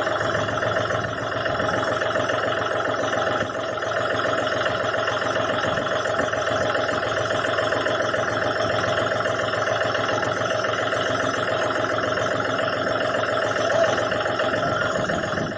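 Tractor engine running steadily, with a brief drop in loudness about three and a half seconds in.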